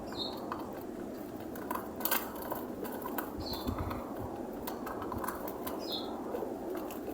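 Pigeons feeding on scattered seed: irregular light taps and clicks of pecking, with a short high chirp three times, over a steady background hum.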